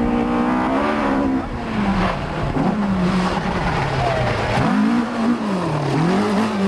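Group B rally car engine revving hard: the revs hold high for about a second and a half, drop, then climb and fall several times in quick succession as the driver shifts and lifts through the stage.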